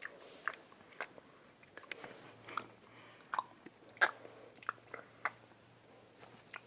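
Faint, irregular clicks and crunches, about a dozen in all, of a cat biting and chewing at a small object.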